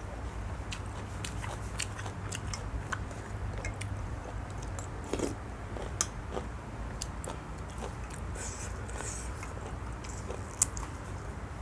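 Close-up chewing and crunching of food, a run of small crisp clicks at irregular intervals, with one sharper click near the end, over a steady low hum.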